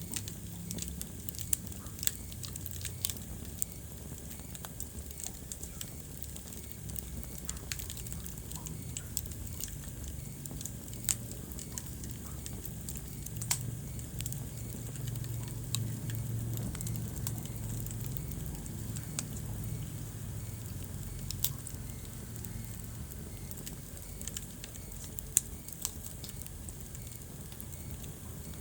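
Wood fire burning in a fireplace, crackling with irregular sharp pops over a low steady rumble of flame.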